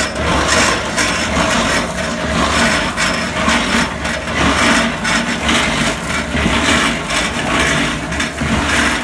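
Concrete mixer turning a gas tank strapped to it, the sand and pea gravel inside the tank rattling and churning continuously in vinegar to scour out rust, over a steady low hum from the mixer.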